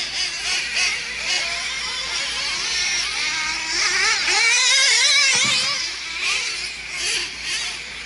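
Several nitro RC trucks' small glow-fuel engines screaming together, high-pitched, their pitches constantly rising and falling as the trucks accelerate and brake around the track.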